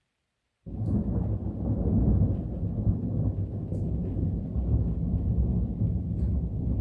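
Thunder rumbling: a deep, continuous rumble that starts abruptly about half a second in and rolls on without a break.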